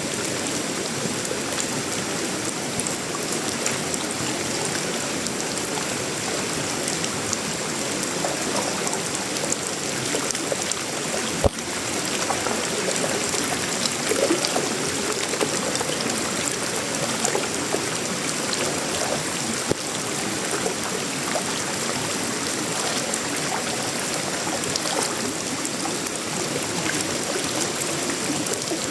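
Steady tropical rain falling on sheet-metal roofing, wood and leaves: an even rushing hiss dotted with many small drop ticks. A single sharp knock stands out partway through.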